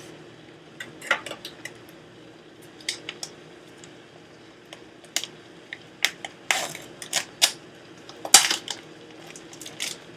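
A kitchen knife and utensils clinking and clattering against dishes and pans in irregular sharp knocks, the loudest about eight seconds in, over a faint steady hum.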